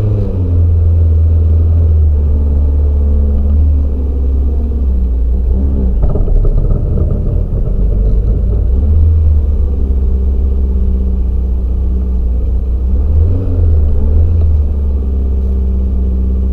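TVR Vixen's engine heard from an onboard camera, running with a deep rumble as the car pulls away and drives at low speed. The revs rise and fall a few times, with a harder surge about six seconds in.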